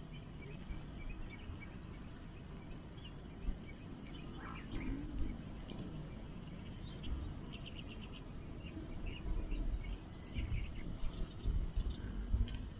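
Outdoor ambience: small birds chirping intermittently over a steady low rumble, with an occasional faint click.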